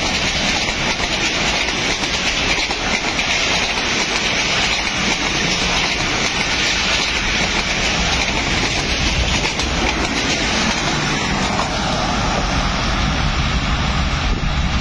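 Passenger coaches of a train rolling past close by: a steady rumble with the clatter of wheels over the rail joints. It eases slightly near the end.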